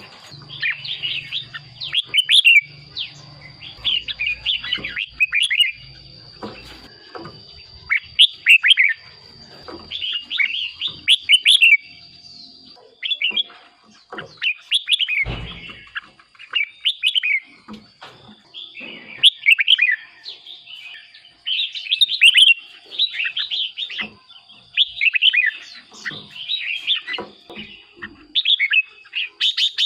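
Red-whiskered bulbul song: short, rapid warbling phrases that repeat every second or two with brief gaps between them.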